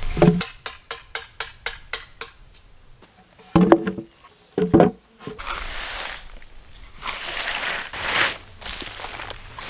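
A run of quick taps, about four or five a second, that fade out, then two heavy knocks in the middle, followed by a steady scraping or rasping noise that swells near the end.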